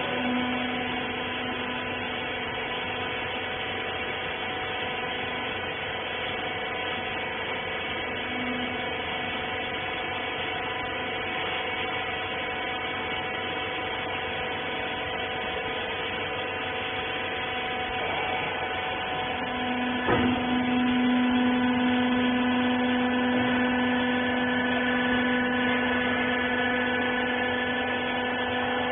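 Horizontal wiper baler's electric hydraulic power unit running with a steady hum. About two-thirds of the way through there is a sharp click, after which the hum grows louder and stronger, typical of the pump coming under load as the press works.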